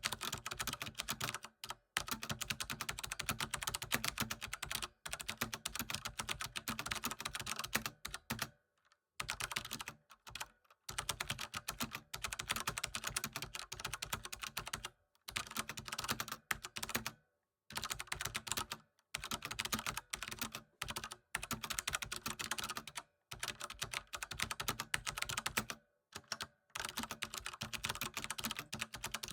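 Computer keyboard typing: a rapid, continuous run of key clicks, broken by brief pauses of under a second every few seconds.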